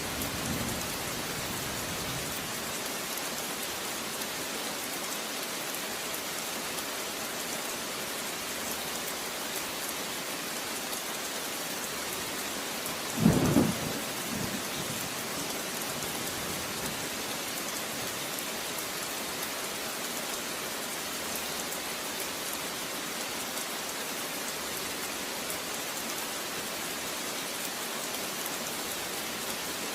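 Steady heavy rain, an even hiss. About halfway through comes a short, loud, low rumble of thunder.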